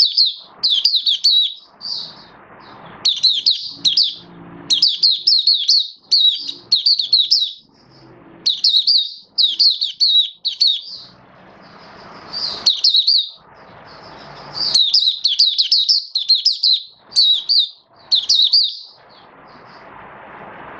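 Oriental white-eye (mata puteh) singing: rapid, high-pitched twittering phrases, each a second or so long, repeated over and over with short pauses between them.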